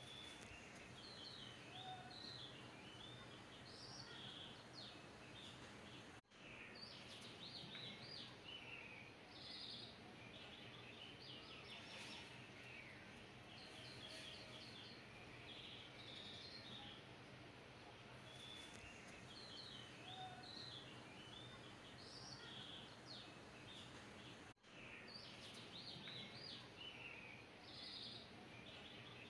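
Faint bird chirps recurring over a low steady hiss, cutting out briefly twice.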